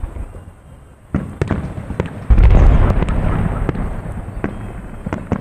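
Fireworks salute shells bursting overhead: several sharp cracks, then a heavy boom a little over two seconds in that rumbles away slowly, followed by a few more cracks toward the end.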